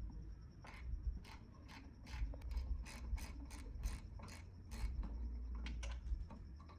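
Hand-tool work on metal: a steady run of sharp mechanical clicks, about two or three a second, over low handling knocks.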